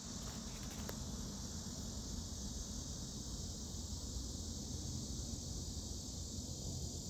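Cicadas buzzing in a continuous, steady high-pitched chorus over a low rumble.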